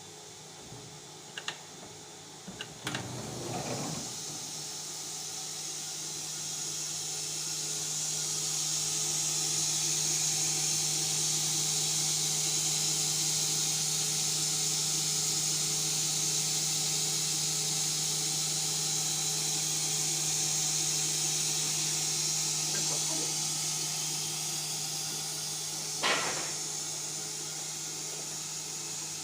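Shop machinery running: a steady hum under a high hiss that swells a few seconds in, with a few sharp knocks near the start and one more near the end.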